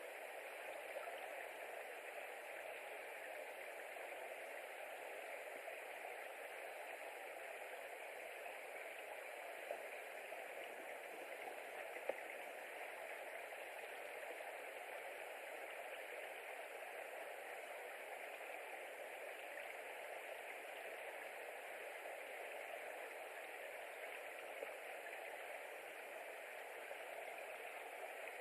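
Steady, even hiss with no calls or other distinct events, and a single faint click about twelve seconds in.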